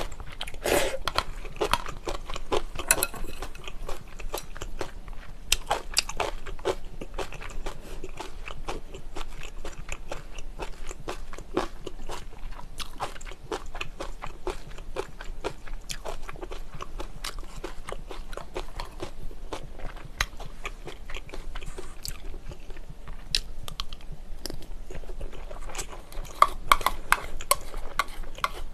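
A person chewing and crunching food close to the microphone: a steady run of wet crunches and mouth clicks. It gets a little louder near the end as soup is drunk from the bowl.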